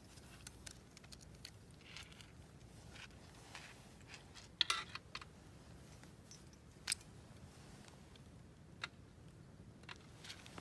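A few scattered short clicks and light handling sounds over a quiet steady background; the sharpest cluster comes about four and a half seconds in.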